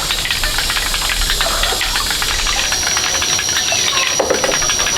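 Steady hissing with dense fine crackling, joined a little over two seconds in by a thin, steady high-pitched tone.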